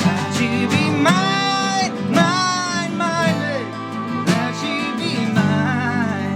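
Live band music: acoustic guitar strummed steadily under held melodic lead notes with vibrato.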